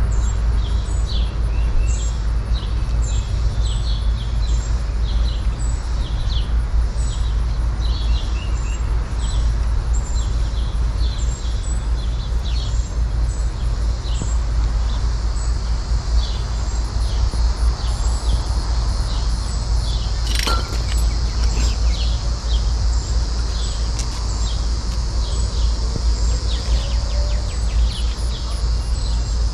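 Birds chirping over and over in short high calls above a steady low rumble, with one sharp click about two-thirds of the way through.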